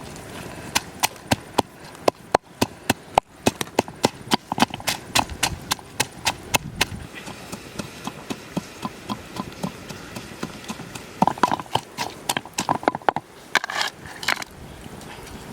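A run of sharp, irregular knocks and clicks, two or three a second, thinning out midway and turning into a denser patch of knocking and scraping near the end.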